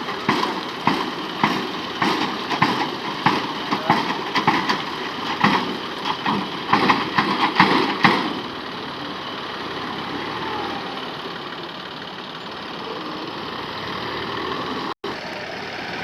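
John Deere 4x4 tractor's diesel engine running. For about the first eight seconds it comes in loud thumps about twice a second, then settles to a steadier, quieter run.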